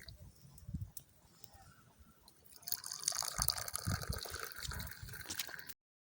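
Liquid trickling and dripping, faint at first and then plainer from about two and a half seconds in, cutting off suddenly near the end.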